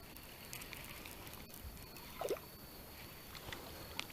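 Faint water lapping against the bass boat's hull, with a few small clicks and one short falling squeak about two seconds in.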